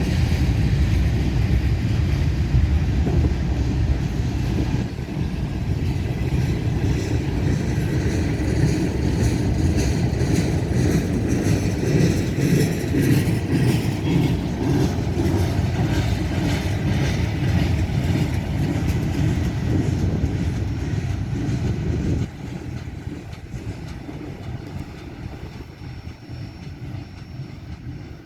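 A CSX freight train's cars rolling past slowly, about 10 mph, under a speed restriction for rail welding: a steady low rumble with wheel and car noise. The sound drops suddenly about two-thirds of the way through and then fades.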